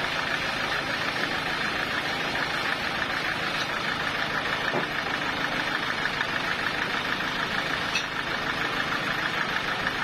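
Sawmill machinery running steadily: a dense, even mechanical noise with a fast, fine rattle that does not change.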